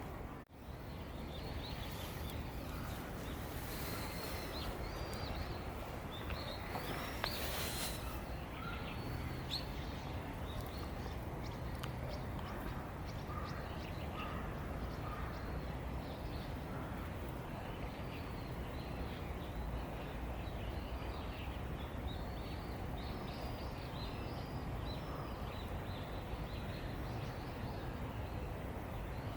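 Birds chirping again and again, short high calls scattered throughout, over a steady low background rumble.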